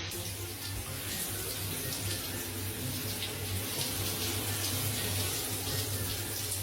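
Steady rushing noise with a low hum beneath it.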